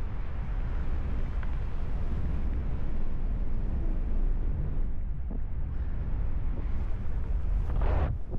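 Wind buffeting the microphone of a paraglider pilot in flight: a steady low rush of airflow, with a short louder burst near the end.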